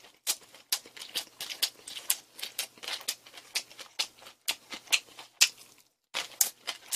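Close-miked chewing of crunchy food: irregular crisp crunches and mouth clicks, a few a second. They stop for a moment just before six seconds in, then start again as a piece of crispy fried chicken is bitten into.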